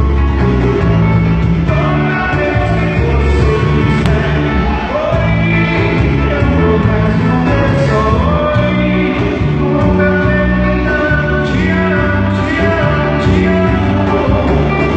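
A live band playing loud amplified music with a strong bass line, and a vocalist singing the melody from about two seconds in.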